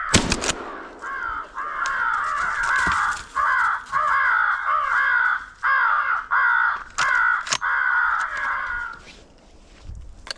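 Crows cawing in a fast, nearly unbroken run of harsh calls that stops about nine seconds in. A sharp knock at the very start is the loudest moment, and a few lighter clicks fall among the calls.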